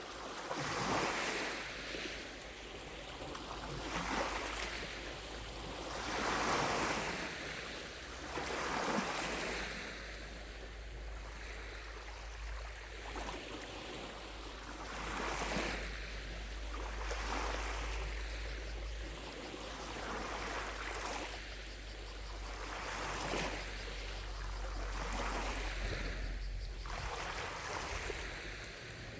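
Small lake waves lapping against the shore, a soft wash every two to three seconds at irregular strength, over a low steady rumble.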